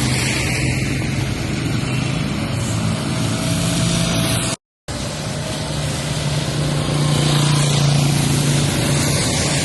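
Vehicle traffic in the rain: a steady low engine hum under a constant hiss of rain, broken by a brief cut to silence about halfway through.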